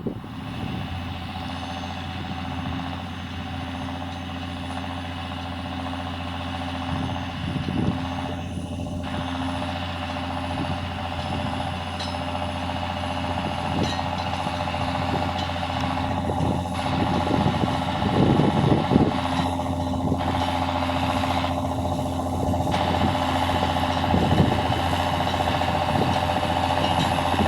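John Deere tractor engine running steadily while plowing, growing gradually louder, with a cluster of knocks and rattles about two-thirds of the way through.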